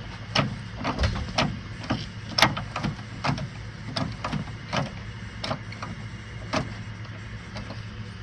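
Kubota M62 front loader control lever being worked back and forth, giving a string of sharp clicks and clunks about one to two a second as it moves through its positions, over a steady low hum. The lever, freshly repaired, is moving freely.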